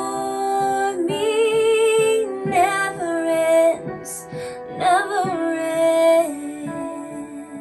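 A woman singing a slow, tender song over piano accompaniment, in a few long phrases of held notes with vibrato and a brief breath between phrases about four seconds in.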